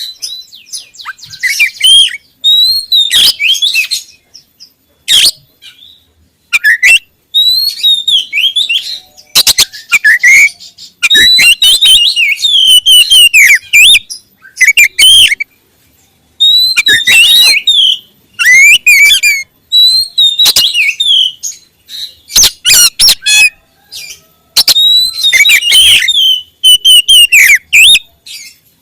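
Oriental magpie-robin (kacer) singing loudly in short, varied phrases of gliding whistles and sharp clicking notes, with brief pauses between them.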